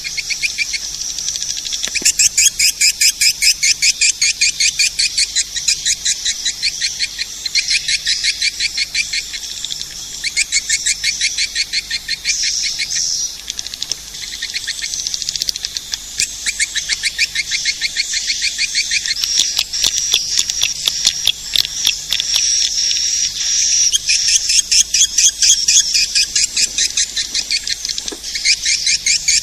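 Edible-nest swiftlet calls on a swiftlet lure recording: fast trains of high, rapidly repeated chirps that chatter almost without a break, pausing only briefly every few seconds.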